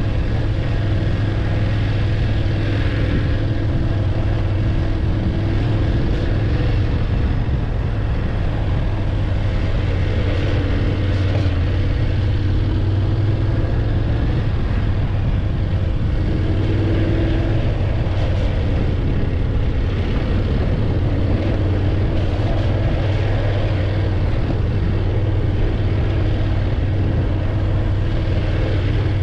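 BMW F850GS motorcycle's parallel-twin engine running steadily under way, a low even hum with a rushing noise over it.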